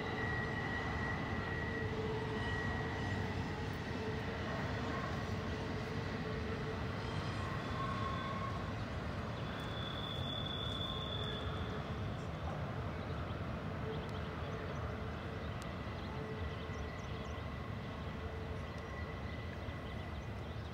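Distant double-stack intermodal freight train climbing the grade, heard from far off as a steady, even rumble.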